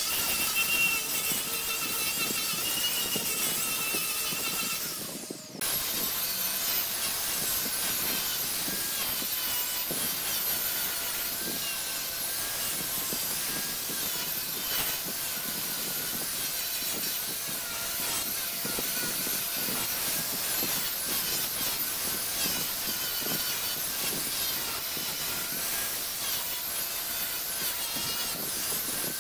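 Wood lathe running while a hand-held turning chisel cuts the spinning wood, a steady whirring hum under continuous scraping. The sound drops out briefly about five seconds in and resumes with a slightly different pitch.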